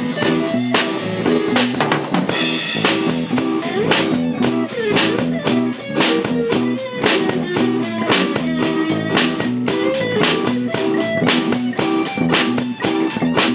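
A band playing live: a drum kit keeps a steady beat under electric guitar and bass, and the guitar bends and slides its notes a few seconds in.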